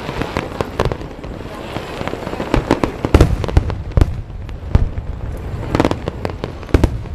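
Aerial fireworks bursting in quick, irregular succession: deep booms mixed with sharper cracks, with a continuous rumble and crackle between them.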